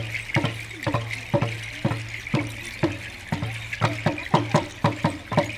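Hand drums beaten in a steady rhythm, about two strokes a second, each stroke dropping slightly in pitch. The beats come closer together, partly doubled, near the end.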